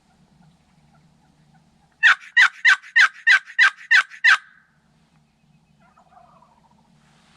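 Turkey call run as a series of eight hen yelps, about three a second, imitating a hen to pull birds toward the hunters.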